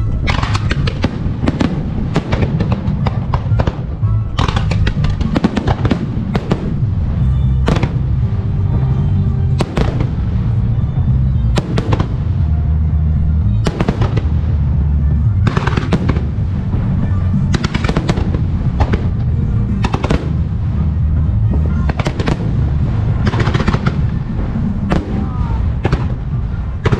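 Music starmine fireworks display: a rapid barrage of firework shells bursting, many sharp bangs over a continuous low rumble of booms, with music playing along.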